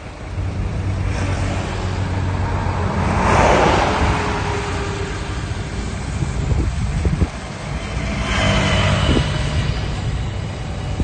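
Heavy diesel engines of earth-moving machinery running steadily, with two louder rushing surges of noise a few seconds apart.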